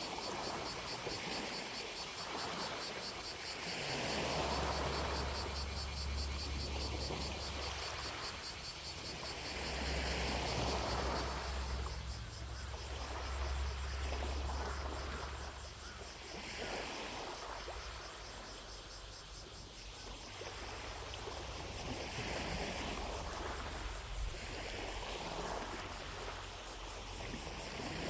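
Small lake waves lapping at the shore in slow, swelling washes every few seconds, over a distant chorus of cicadas buzzing with a fast, even pulse. A low rumble sits beneath them from about four seconds in for some ten seconds.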